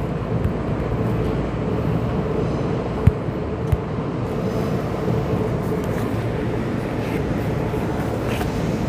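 Steady hum and rumble inside the cabin of a Keisei 3500-series commuter train, with two short knocks about three seconds in.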